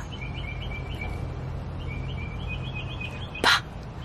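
Songbird chirping in the background: two quick runs of repeated high notes, the second longer. Near the end a short breathy burst is the loudest sound.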